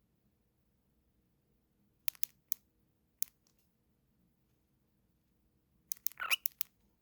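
Pet cockatiel making a few sharp clicks and taps, a small group about two seconds in and one more a second later, then a quick cluster of clicks with a short rising squeak near the end.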